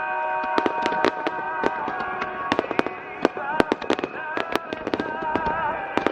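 Aerial fireworks bursting in quick succession, many sharp cracks and bangs several times a second, with music playing underneath.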